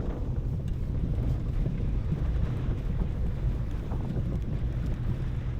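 Car driving over a rough, bumpy road surface under construction: a steady low road and engine rumble, with faint knocks and rattles.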